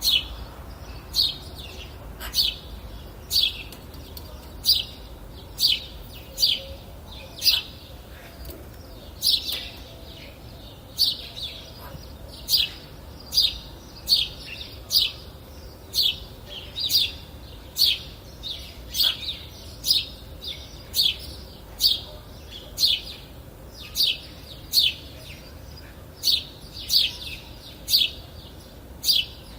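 A songbird repeating a short, sharp chirp over and over, about one to two calls a second, at an even pace.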